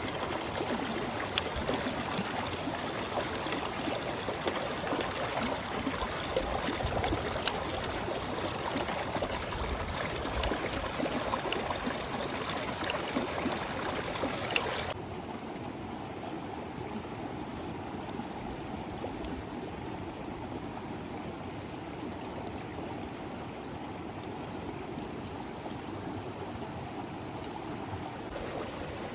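River water flowing steadily, with a few sharp clicks in the first half. About halfway through, the flow abruptly becomes softer and duller.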